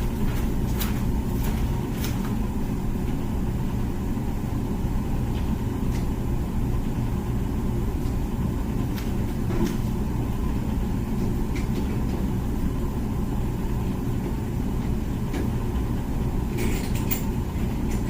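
Comfee dishwasher running mid-cycle: a steady low hum of the machine, with a few faint clicks scattered through it.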